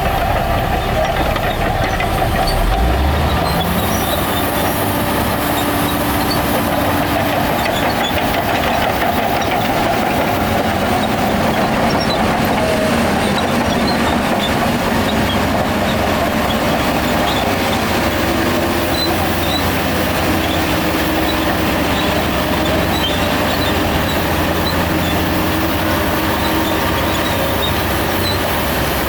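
Shantui DH17 bulldozer's diesel engine running under load, with steady clanking from its steel tracks. The engine revs up about two to four seconds in.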